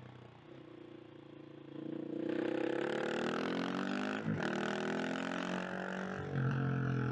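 KTM 690 SMC R supermoto's single-cylinder engine, ridden: it runs softly on a light throttle, then opens up about two seconds in and the revs climb. There is a short break in the note near the middle as it changes gear, the revs climb again, and the note drops back low near the end.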